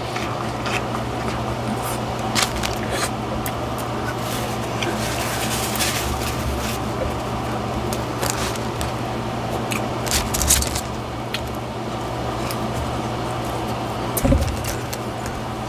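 Close-miked chewing of a burger: wet, crackly mouth sounds and bites with many short clicks, over a steady low hum.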